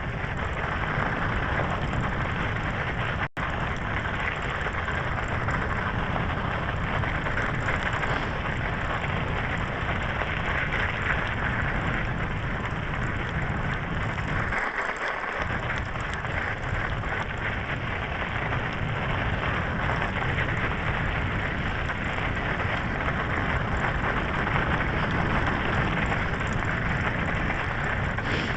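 Steady wind rush on the microphone and tyre noise of an electric bicycle riding over frozen snow, with a brief cut in the sound about three seconds in.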